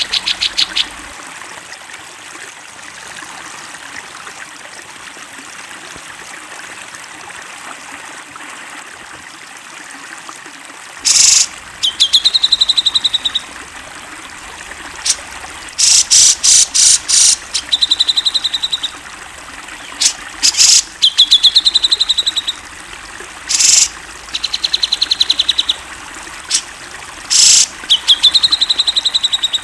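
Cucak jenggot (grey-cheeked bulbul) calling over a steady background hiss. After a short burst at the start and about ten seconds without calls, it gives repeated short, loud, harsh calls alternating with rapid high trills, each trill about a second and a half long.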